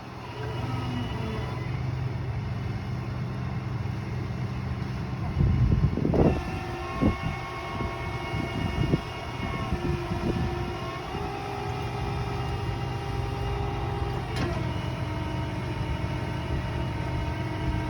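A vehicle engine running steadily, with a higher whine that steps down in pitch about fourteen seconds in, and a few short knocks in the middle.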